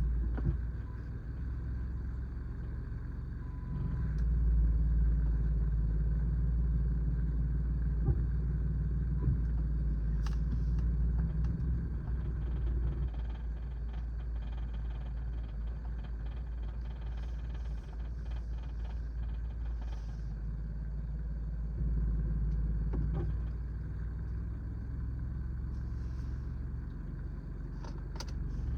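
Turbocharged car engine running at low speed and idle with an odd vibrating rattle, which the owner suspects is a loose wastegate flap. The engine grows louder twice, about four seconds in and again about twenty-two seconds in.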